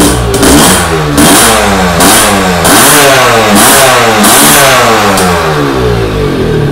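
Honda Nova Dash SP1's 125 cc two-stroke engine being blipped on the throttle at a standstill, revving up and falling back about once a second, several times over, then settling toward idle near the end.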